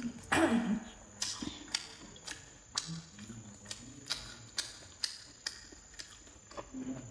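Close-up mouth sounds of a person chewing cured pork belly and glass noodles: wet smacking clicks, about two a second, with a louder wet slurp about half a second in.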